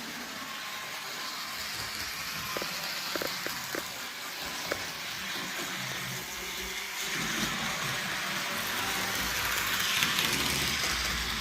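HO scale model train running on the track layout: a steady whirring hiss, with a few light clicks in the first half and growing louder in the second half.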